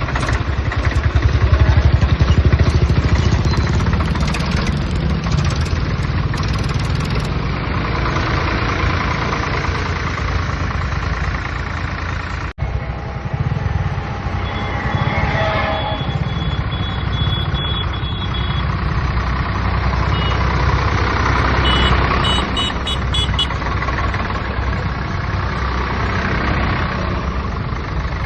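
Swaraj tractor's diesel engine running steadily, louder for a couple of seconds near the start, with a brief break about halfway through. A quick run of short high beeps comes about three quarters of the way in.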